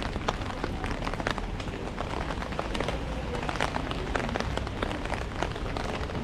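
Heavy rain drumming on an umbrella overhead: a dense, irregular stream of sharp drop hits over a steady wash of rain.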